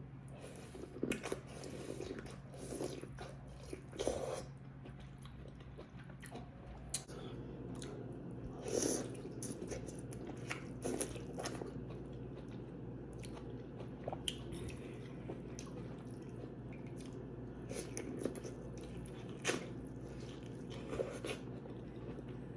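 Close-miked mouth sounds of a person eating seafood boil food: irregular biting, chewing and wet mouth clicks, with a few louder crunchy bites. A steady low hum runs underneath.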